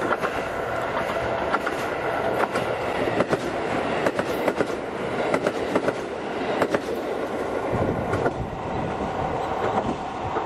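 A train running along the track, with a steady rumble of wheels on rail and many short clicks as the wheels cross rail joints.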